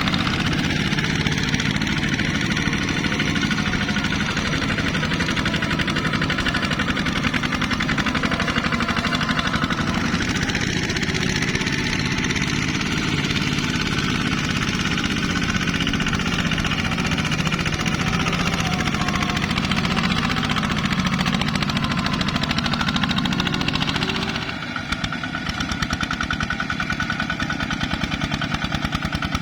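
ZT 155 tractor's engine running steadily with a fast, even firing beat. About three-quarters of the way through, the sound dips briefly, then carries on slightly quieter with a changed tone.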